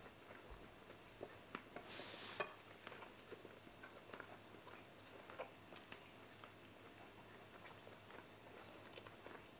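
Faint chewing and small mouth clicks from people eating, with a short hiss-like rustle about two seconds in.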